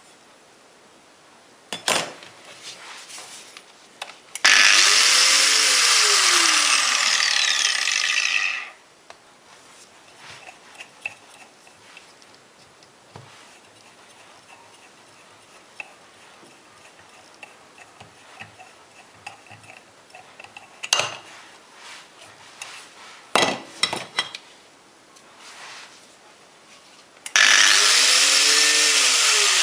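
Electric angle grinder switched on and run free, its motor whining up to speed and then winding down, for about four seconds. It is started again near the end and runs up once more. Between the two runs come a few handling clicks and knocks.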